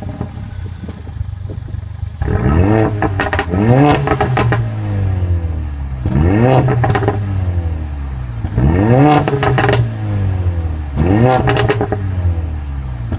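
2014 Mercedes CLA45 AMG's turbocharged 2-litre inline-four idling, then revved four times in free-revving throttle blips, each rising and falling back to idle. Sharp crackles come with each rev.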